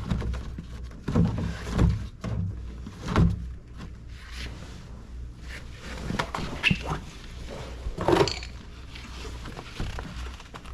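Irregular knocks, clicks and scrapes of a door speaker and its screws being handled and fitted into a car's inner door panel. The louder thumps come about a second to three seconds in and again about eight seconds in.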